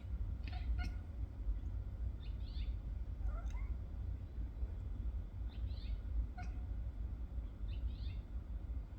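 A domestic cat making short chirping meows, as cats do when watching birds, repeated every couple of seconds, with one rising call in the middle. A steady low rumble runs underneath.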